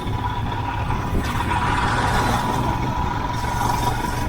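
Royal Enfield Himalayan's 411 cc single-cylinder engine running steadily as the motorcycle is ridden along the road. A rush of noise swells about a second in and eases off near the end.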